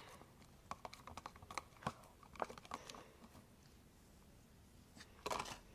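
Faint, irregular light clicks and taps of a utensil stirring in a container, then a short breathy sound near the end.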